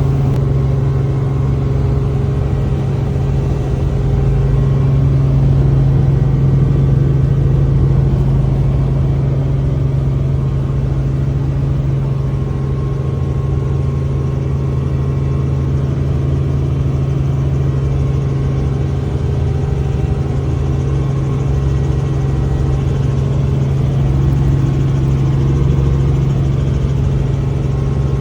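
Tour helicopter running, its engine and rotor making a loud, steady low drone that holds an even pitch throughout.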